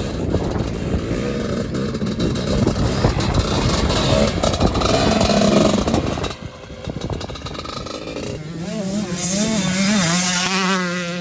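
Two-stroke motocross bike engine running hard at high revs, its pitch climbing about four to six seconds in. The sound cuts off sharply about six seconds in; after a short gap, a buzzing two-stroke engine note that wavers up and down in pitch takes over near the end.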